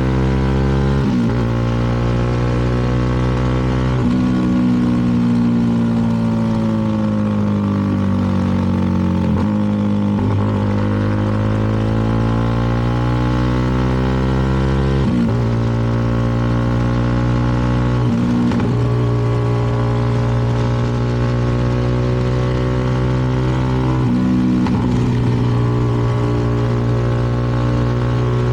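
CFMoto 300NK's single-cylinder engine running at riding speed. The note cuts off briefly and changes pitch about half a dozen times, as with gear changes, over a steady rush of wind noise.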